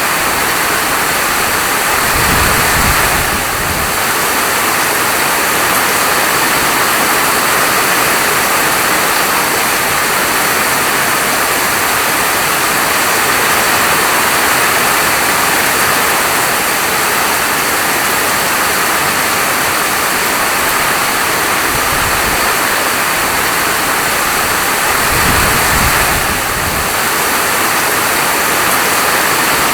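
Steady heavy rain falling, a dense even hiss, with two brief low rumbles, one about two seconds in and one near twenty-five seconds.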